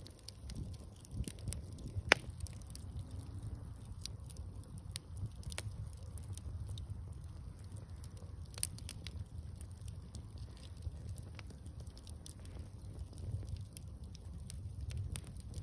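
Wood bonfire crackling with irregular snaps and pops over a low steady rumble, one loud pop about two seconds in.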